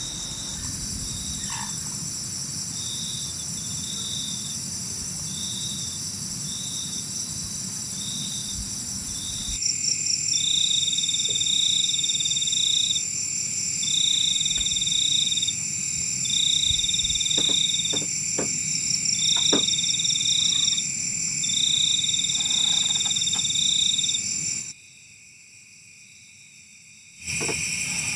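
Night chorus of insects and frogs: a steady high shrill buzz with a repeated pulsing call that starts in short notes and later comes in longer calls of about a second each. The chorus cuts out for about two seconds near the end.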